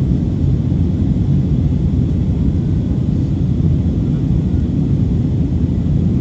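Steady low rumble of an Airbus A321neo cabin in flight: engine and airflow noise heard from inside the passenger cabin.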